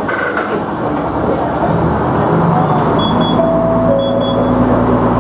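KiHa 100 diesel railcar's engine revving up as the train pulls away, its pitch rising, with a short double electronic beep sounding twice in the middle.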